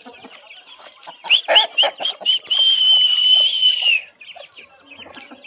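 Aseel chickens clucking and calling, with a loud run of short high rising calls about a second in, then one long high call held for about a second and a half that drops off at its end.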